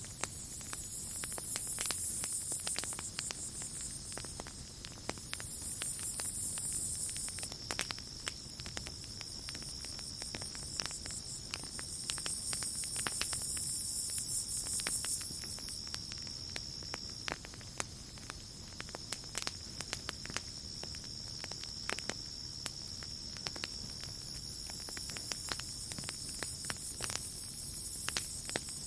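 Campfire crackling with frequent small pops, over a steady high insect trill. A higher insect buzz swells in and fades out about four times.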